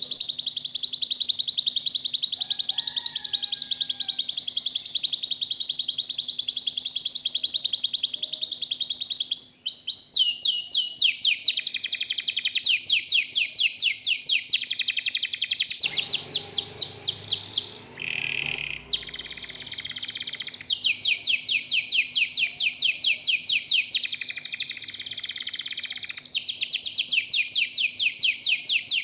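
Local canary singing long, rapid, high-pitched trills and rolls, the repeated notes changing speed every few seconds. A brief lower rustling noise comes through about 16 seconds in.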